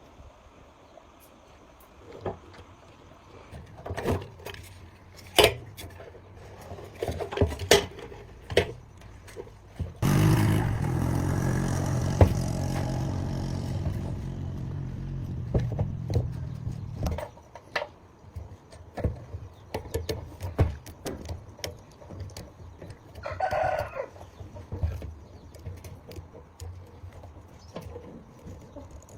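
Scattered knocks and clatters of hand work on metal parts. About ten seconds in, a loud, steady machine noise starts and runs for about seven seconds. Later a rooster crows once, briefly.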